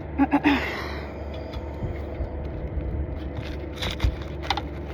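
Asphalt shingle being handled and scraped against the roof during a repair: a brief crackling scrape just after the start, then a few light clicks and knocks, over a steady low hum.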